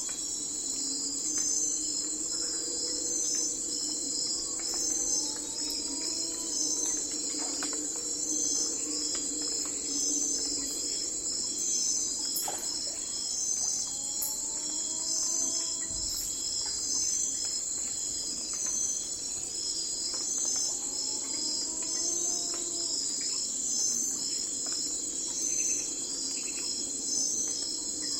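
Night forest ambience: a dense chorus of crickets and other insects chirring steadily. Short rising calls from another animal come every few seconds beneath it.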